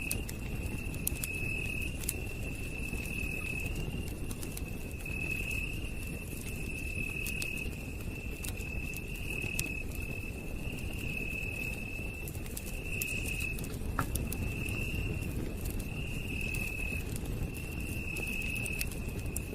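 Campfire burning with a low steady rumble and scattered sharp crackles and pops, under a night insect trilling on one high note in phrases of about a second, repeating every couple of seconds.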